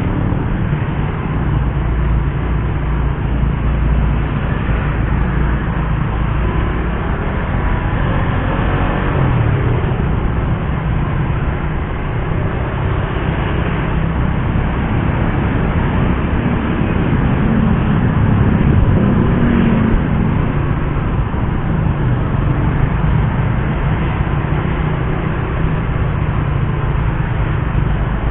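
Suzuki GSX-R150's single-cylinder engine running under way, its pitch rising and falling a couple of times, over steady wind and road noise.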